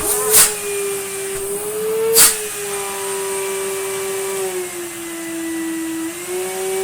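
Numatic NRV200 vacuum cleaner motor running with a steady whine, its pitch dipping slightly a little past midway and rising again near the end; a sharp click about two seconds in. After a fan wash the motor is a little bit loud and not 100%, but a lot better than it was.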